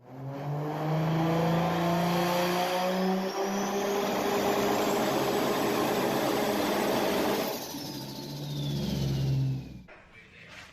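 LS V8 car engine running under load, with a high whine that climbs slowly. After about seven and a half seconds the whine falls away and the engine eases to a lower rumble, then the sound cuts off sharply near the end.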